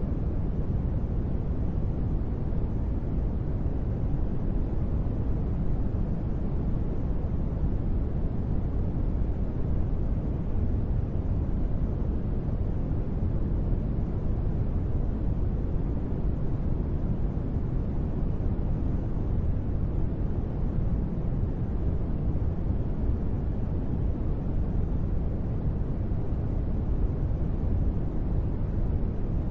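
Steady, even sleep-aid noise billed as gentle rain, deep and dull with most of its weight in the low end and little hiss on top. No separate drops, gusts or changes can be picked out.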